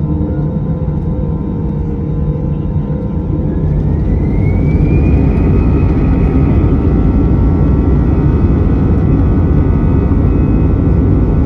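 Airbus A319's CFM56 jet engines heard from inside the cabin, spooling up: a whine rises about four seconds in and settles into a steady, louder roar, typical of the engines reaching takeoff thrust.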